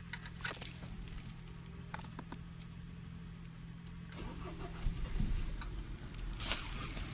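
Lada Kalina's engine running with a steady low hum, with a few sharp clicks and rattles, and a brief louder low rumble about five seconds in.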